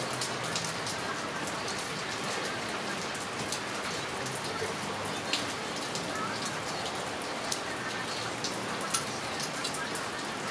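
Heavy rain falling steadily, with sharp ticks from single drops hitting a nearby surface at irregular times.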